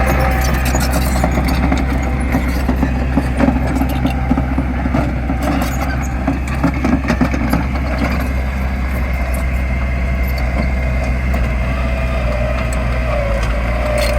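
Heavy diesel engine of earthmoving machinery running steadily, with scattered clanks and knocks in the middle and a wavering whine near the end.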